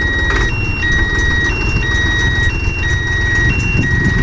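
A vehicle's electronic warning beeper alternating between a lower, longer tone and a higher, shorter one, repeating about once a second over the steady rumble of its running engine.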